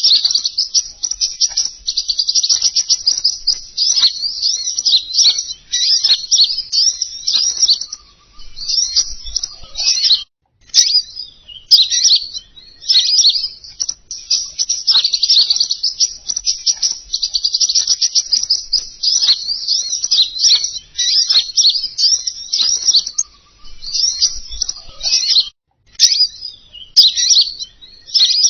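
Recorded lure song of the bird sold as 'king konin': a fast, unbroken stream of high chirps and warbling phrases. It breaks off briefly about ten seconds in and again shortly before the end.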